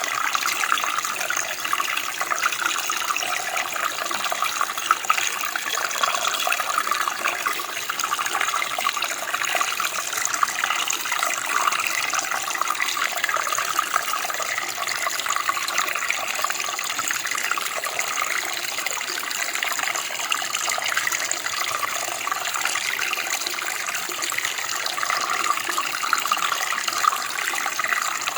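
Running water from a stream or creek: a steady, even rush and babble without pause.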